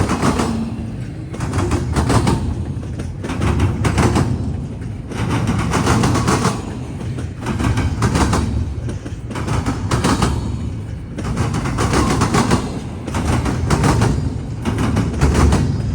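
Freight train wheels pounding over a railroad diamond crossing: clusters of heavy clanks about every two seconds as each car's wheelsets cross the gaps, over a steady rumble of rolling cars.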